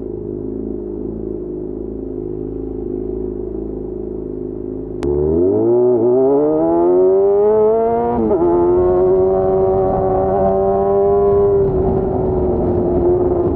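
Yamaha FZ6's 600 cc inline-four engine running at a steady low speed, then about five seconds in it gets louder and the revs climb, with two quick dips in pitch as it shifts up. It then holds a steady note and eases off slightly near the end.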